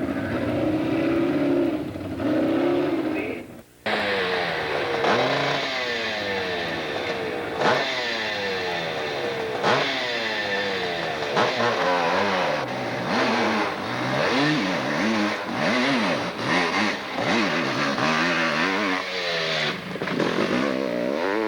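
Hill-climb motorcycle engine revving hard, its pitch climbing and falling again and again as the throttle is opened and backed off, with some clatter. There is a short break at about four seconds in.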